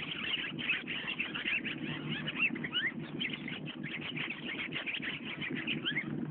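Birds chirping and calling, with many short, quick chirps, some of them rising, over a low steady background noise.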